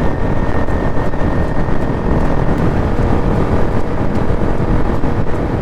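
Bajaj Pulsar NS200's single-cylinder engine, fitted with an aftermarket Akrapovic full-system exhaust, cruising steadily at about 75–80 km/h on the highway, mixed with heavy, steady wind rush on the microphone.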